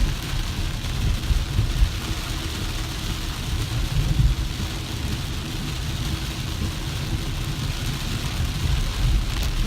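Car driving, heard from inside the cabin: a steady low rumble of engine and tyres on wet road, with an even hiss over it.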